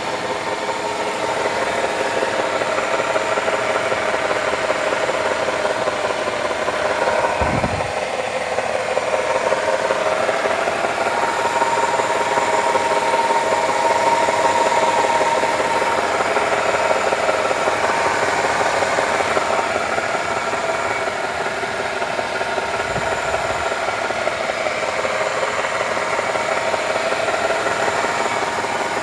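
Nissan Tiida's CVT whining steadily while the car idles in drive with the front wheels spinning free on a lift. The whine is a sign of internal damage in the CVT, as the mechanic thinks, since it does not change when either wheel is stopped. Two brief low thumps come about a quarter of the way in and again about three-quarters of the way in.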